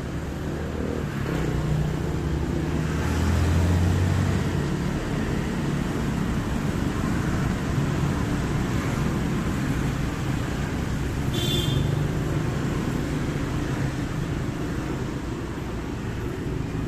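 Street traffic: a steady rumble of passing vehicle engines, with one engine passing louder about three to four seconds in. A brief high-pitched sound cuts through about eleven seconds in.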